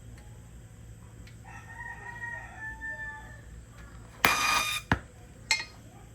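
A rooster crowing faintly in the background, one drawn-out call. Then, louder, a short hiss lasting about half a second, followed by two sharp clicks.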